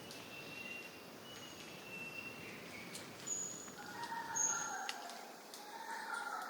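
Wild birds calling: thin, steady whistled notes at first, then short high whistles and warbled phrases from about three seconds in, over a faint background hiss.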